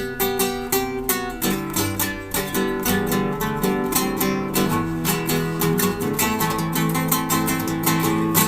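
Acoustic guitar playing, with quick strummed chords and rapidly plucked notes.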